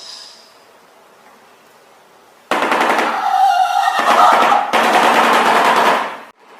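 Shoebill clattering its bill: a loud, rapid rattle like machine-gun fire. It starts abruptly about two and a half seconds in, after a faint quiet stretch, and lasts about four seconds.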